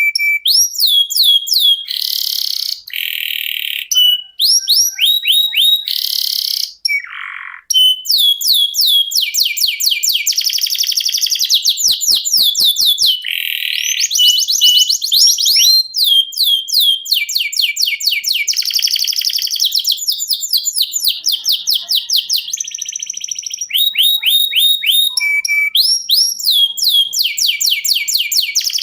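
Domestic canary singing a long rolling song: phrases of rapidly repeated high notes and trills, one running into the next with only brief pauses in the first few seconds.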